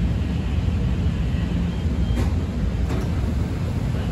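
CTA 5000-series rapid-transit car running along the track, heard from inside the car: a steady low rumble, with a couple of faint clicks from the wheels about two and three seconds in.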